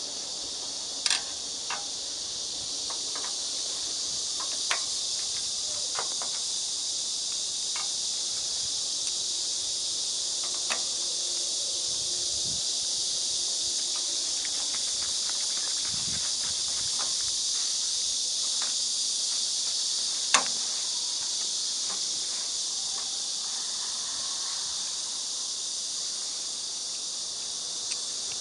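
Steady high-pitched chorus of crickets, with a few scattered sharp clicks and taps, the loudest about twenty seconds in.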